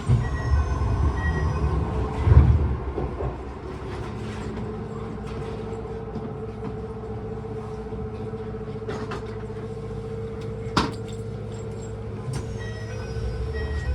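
Keisei 3000 series commuter train running at speed, heard from inside the car: a steady low rumble of wheels on rail with a steady whine over it, a heavier thump about two seconds in and a single sharp click near the end.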